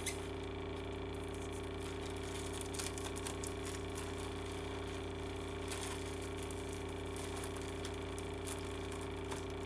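Scattered light clicks and taps of a CD box set and its packaging being handled, over a steady low hum.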